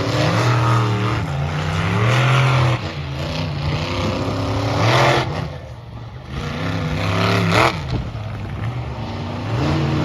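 Monster truck engines revving in an arena, the engine note rising and falling repeatedly, with a brief lull just past the middle.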